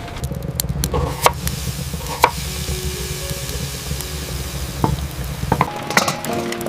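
Food frying in a pan while being stirred, with a few sharp clinks of a utensil, over soft background music; the frying stops abruptly about five and a half seconds in.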